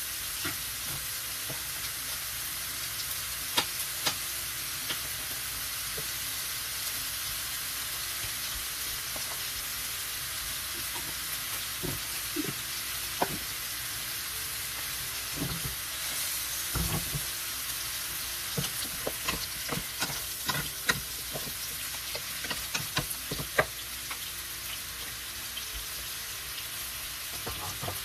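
Shrimp and a salmon fillet frying in pans, a steady sizzle throughout. Utensils knock and scrape against the pan at times, most often in the second half.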